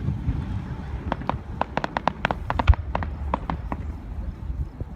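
Fireworks crackling: a quick run of sharp pops and snaps from about a second in until near four seconds, with a single low boom in the middle of it.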